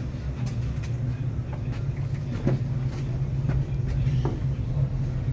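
Steady low rumble of a car ferry's engines and machinery, with a few light clanks and knocks scattered through it.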